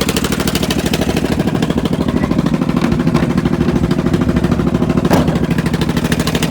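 1995 John Deere 445 garden tractor's liquid-cooled, fuel-injected 22 hp Kawasaki V-twin running steadily with a fast, even firing pulse. A short sharp click comes about five seconds in.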